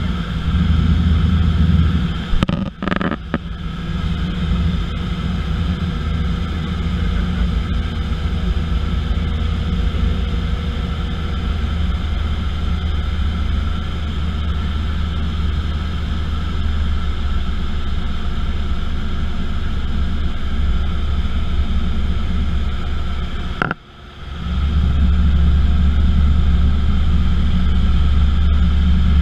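Steady drone of an aeroplane's engine and rushing air in flight. It drops out briefly twice: about three seconds in and again near the end, where it comes back louder.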